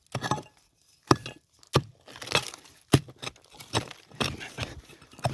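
Hand digging tool striking and scraping stony soil in repeated sharp strokes, roughly two a second, while excavating a deep iron cannonball.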